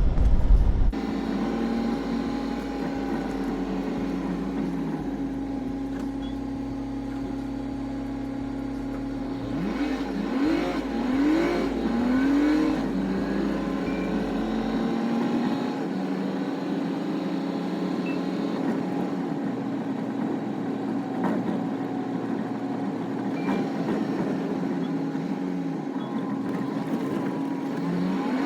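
Semi truck's diesel engine running steadily, heard from inside the cab while driving. Several short rising engine notes come about ten seconds in and again near the end.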